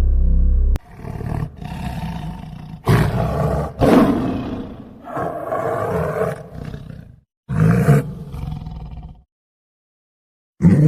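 An animal roaring in a run of rough, growling calls, each about a second long, that stops about nine seconds in.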